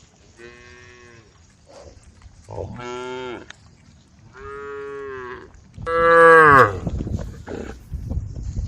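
Cows mooing: four separate moos, each about a second long, the last one the loudest. Low rumbling, thudding noise follows near the end.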